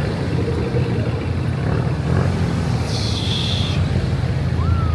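Car engine running with a steady low rumble, with a brief hiss about three seconds in.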